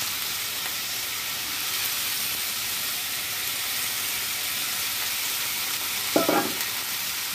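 Cut taro root (arbi) pieces sizzling steadily in hot oil in a kadhai, just after being added to fry. A brief sharp sound breaks in about six seconds in.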